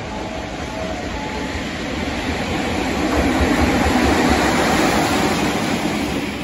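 JR Freight EF66 electric locomotive passing close by at the head of a container freight train. It grows louder as it approaches, is loudest as the locomotive goes past about four seconds in, then gives way to empty container flatcars rolling over the rails.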